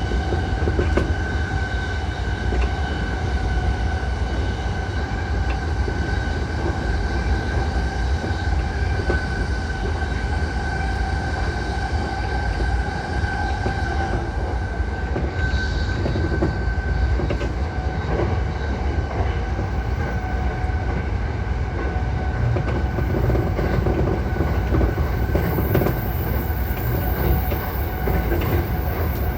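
JR East E235 series 1000 electric train running at steady speed, heard from inside the car: a low rumble of wheels on rail with a steady high tone and occasional light clicks over rail joints.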